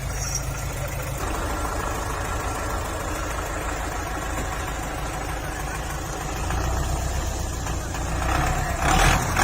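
Tractor diesel engine running steadily, building up louder about two-thirds of the way in.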